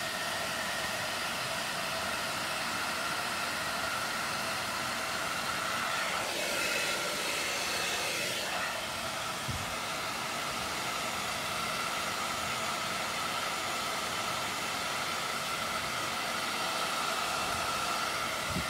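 Hair dryer running steadily: a constant rush of blown air with a faint steady motor whine.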